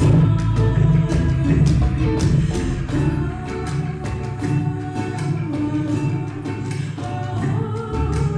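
Acoustic band music: plucked ukulele over a low bass, with a steady cajón beat.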